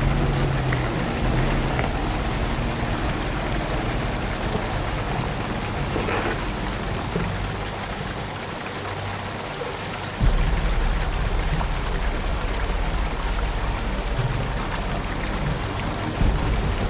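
Steady rain hiss with scattered drop ticks, over low sustained music tones that swell in the bass about ten seconds in.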